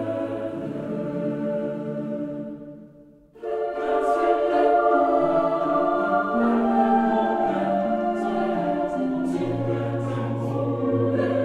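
Choral music: a choir singing long held notes that move step by step between chords. It fades away about three seconds in and comes back at full level a moment later.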